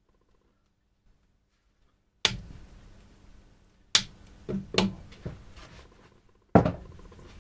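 A series of sharp, hard knocks, about six in all over five seconds after a quiet start, each ringing out briefly.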